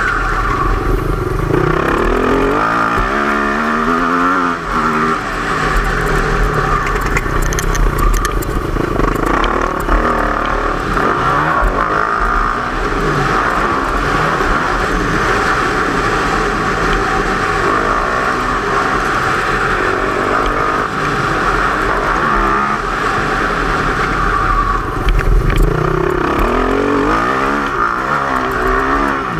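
Motocross dirt bike engine revving up and down as it is ridden on a dirt track, its pitch rising and falling again and again.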